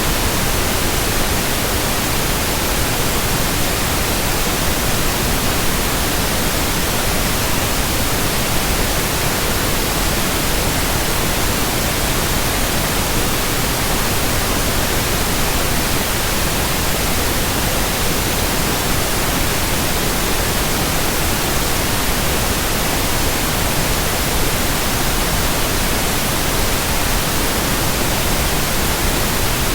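Steady, even white noise: a constant hiss spread evenly from low to high pitch, with no rhythm, swish or change.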